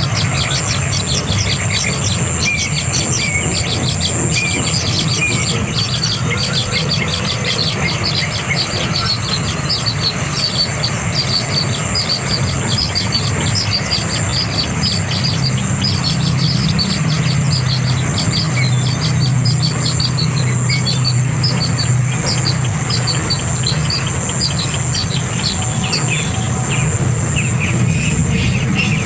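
Birds giving quick runs of short, high chirps throughout, over a steady low hum and a steady high-pitched ring.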